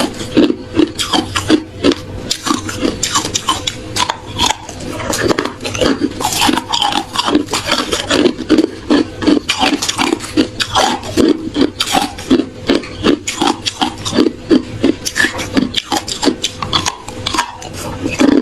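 Reshaped hard ice being crunched and chewed, a rapid unbroken run of sharp crunches, several a second.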